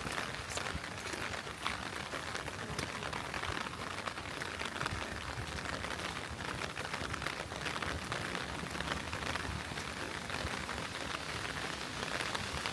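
Heavy rain falling steadily: a continuous hiss peppered with the ticks of individual drops landing close by.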